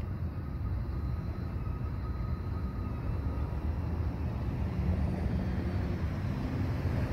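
A distant train's low, steady rumble, growing a little louder near the end, with a faint thin whine in the first few seconds.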